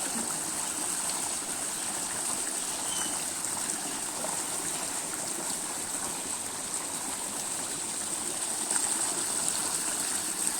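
Stream water running steadily, with a constant high-pitched hiss over it.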